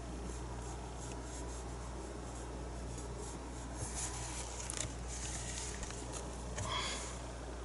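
Faint scratching and rubbing of a paintbrush working acrylic paint on a painting surface, over a steady low hum, with a few light taps near the middle.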